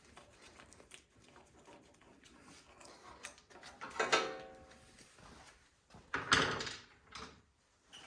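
Quiet clicks and handling noise of a small plastic cover being worked off a snowblower's carburetor intake, with a short scrape about four seconds in and a louder scraping rustle a little after six seconds.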